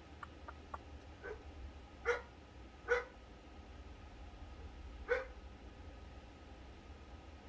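A dog barking: one soft bark, then three louder ones spaced about a second apart with a longer gap before the last, over a low steady hum. A few faint clicks come just before the barks.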